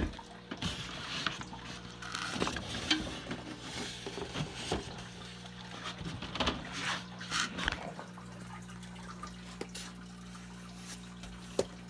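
Light handling noises, scattered taps, clicks and rustles, over a steady low electrical hum. The handling noises die away after about eight seconds, leaving the hum.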